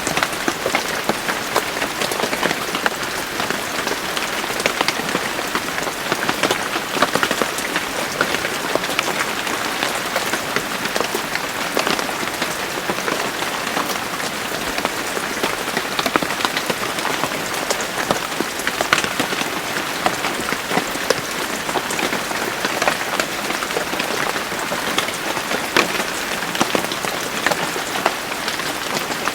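Steady rain, dense and even, with many fine drop clicks.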